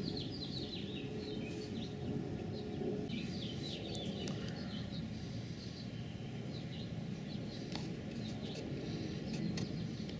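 Small birds chirping and singing repeatedly over a steady outdoor background noise, with a faint steady hum that stops about three seconds in.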